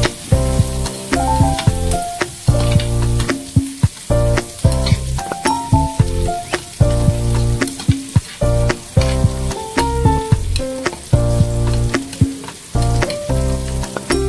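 Pork and shrimp sizzling as they fry in a metal pan, stirred with a metal spoon that clicks and scrapes against the pan, under background music with a steady repeating beat.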